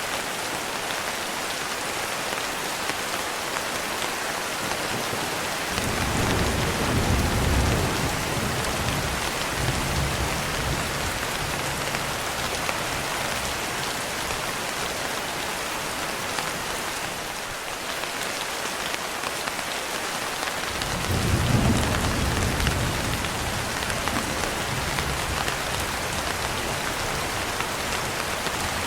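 Steady rain, with two rolls of thunder: one about six seconds in and another about twenty-one seconds in, each rumbling low for several seconds.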